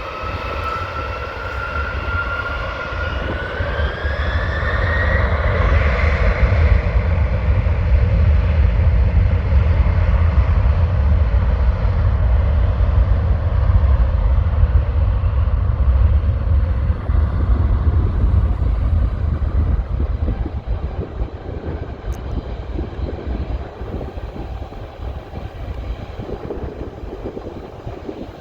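Boeing 767-300's twin jet engines at takeoff power. A whine rises in pitch over the first few seconds as the engines spool up. A deep rumble then builds, peaks and slowly fades as the airliner accelerates away down the runway.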